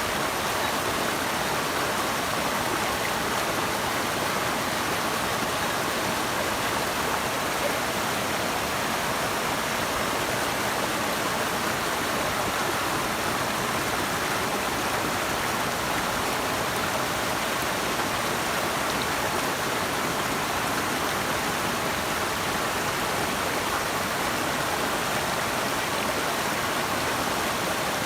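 Steady rush of flowing water from a stream or waterfall, an even unbroken sound with no changes.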